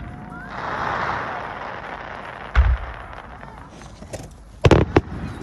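Aerial firework shells bursting: one boom about two and a half seconds in, then two louder booms in quick succession near the end, over an earlier spell of hiss.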